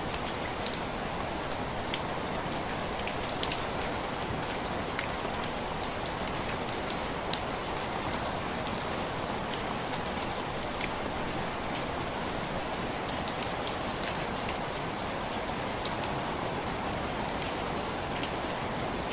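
Steady rain pattering on window glass, with individual drops ticking sharply against the pane every so often over the continuous hiss.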